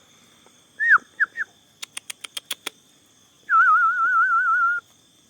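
A person whistling to call pigeons: three short, quick whistled notes, then a rapid run of about seven sharp clicks, then a loud warbling whistle held for just over a second. Faint steady insect chirring runs underneath.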